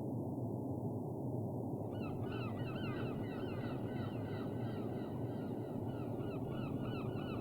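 Steady low rushing noise, joined about two seconds in by a long run of quick, repeated rising-and-falling bird calls, several a second.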